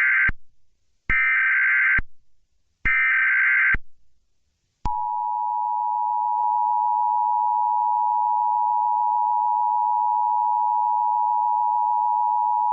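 Emergency Alert System tones: the end of one and then two more short bursts of the screechy SAME header data tones, each lasting just under a second. About five seconds in, the steady two-tone EAS attention signal starts and holds.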